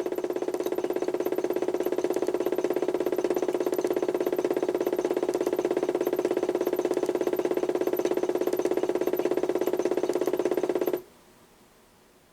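Toy washing machine driven by a HUSTOO 775 DC motor, running the drum at steady speed with a fast flutter and light clicks, then cutting off suddenly about 11 seconds in.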